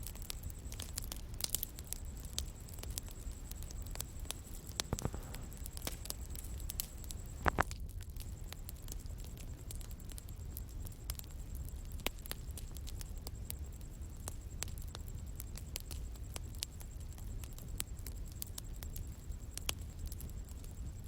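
Bonfire crackling: scattered sharp pops and snaps over a low, steady rumble of burning, with one louder pop about seven seconds in.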